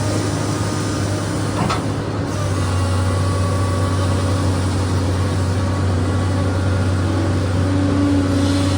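SANY excavator's diesel engine running steadily, with a brief sharp noise nearly two seconds in.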